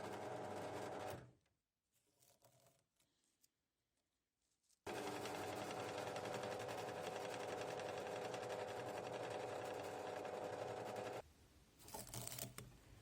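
Electric power tool motor running steadily, dying away about a second in. After a few seconds of near quiet with small knocks, it starts again abruptly and runs for about six seconds before cutting off, followed by a few light clicks and knocks.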